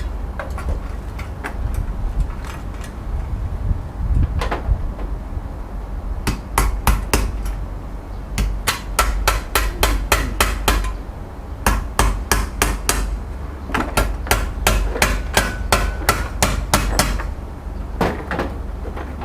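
Hammer strikes in quick runs of several blows a second, with a few single blows early on, over a steady low rumble.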